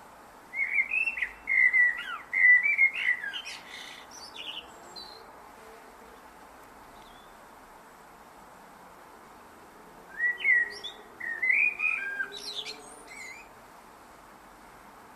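Blackbird singing two phrases, each a run of warbled whistled notes ending in thin, higher notes. The first phrase begins just after the start, and the second comes about ten seconds in after a pause.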